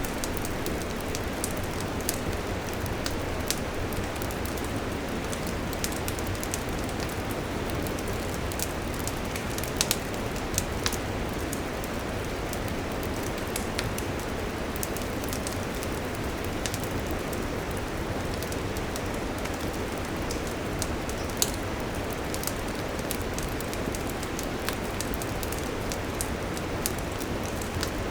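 Wood campfire burning with a steady hiss and frequent sharp crackles and pops, a few of them louder, about ten seconds in and again near twenty-one seconds.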